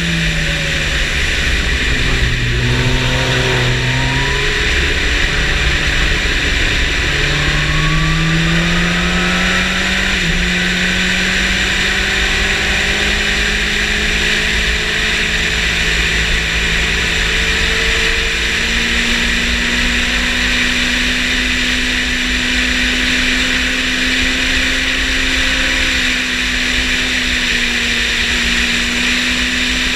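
Yamaha motorcycle engine at speed on a race track, its pitch rising and dropping through the gears in the first ten seconds, then holding steady and high, under loud wind rush.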